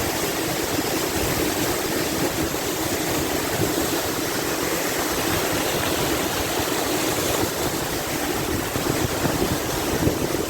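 Waterfall, with a steady rush of falling water.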